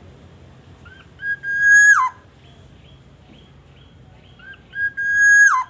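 Black-naped oriole (kepodang) giving two loud whistled calls a few seconds apart. Each is a short rising note followed by a long level whistle that drops steeply in pitch at the end. Faint short chirps sound between the calls.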